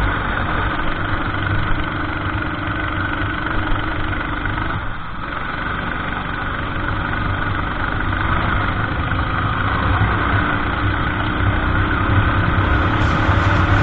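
Kart engine heard from the kart itself, a steady drone at low revs with a brief dip about five seconds in, mixed with wind and track noise.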